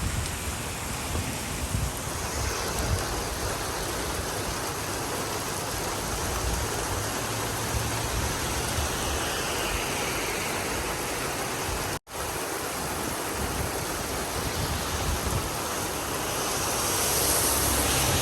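Steady rush of rain and wind, with a momentary break about twelve seconds in and a hiss swelling near the end.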